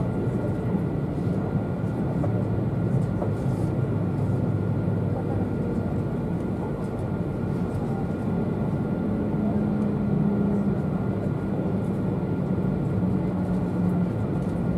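Steady low running rumble of a passenger train, heard from inside the car as it rolls slowly into a station platform.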